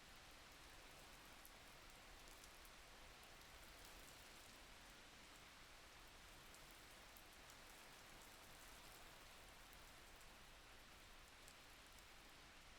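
Faint, steady rain: an even patter with scattered drop ticks.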